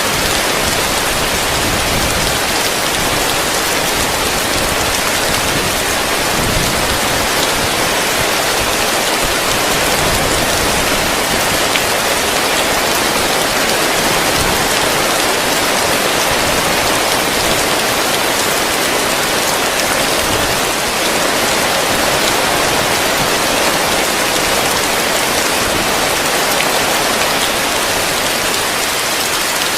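Heavy rain falling steadily on a roof, a dense even hiss of drops without letup.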